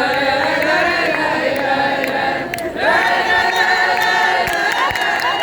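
A choir of voices singing long held notes in harmony, breaking off briefly about two and a half seconds in and then going on.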